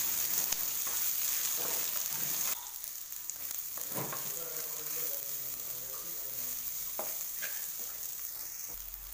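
Sliced small onions, garlic and curry leaves sizzling in hot oil in a clay kadai, stirred and scraped with a wooden spoon. The sizzle drops in level about two and a half seconds in.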